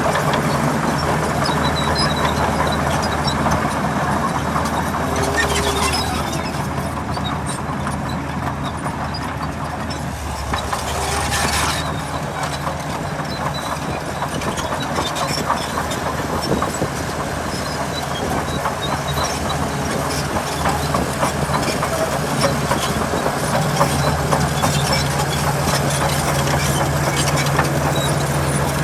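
Diesel engine of a Komatsu D61PX crawler bulldozer running under load, a steady low drone, with continuous rattling clatter of its steel tracks. The engine eases off briefly around a third of the way in, then picks up again.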